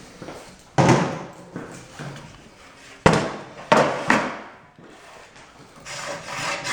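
A few sharp metal knocks and clunks from a Rubi TS-50 tile snap cutter being worked by hand and checked after repair, then a longer scraping sound near the end.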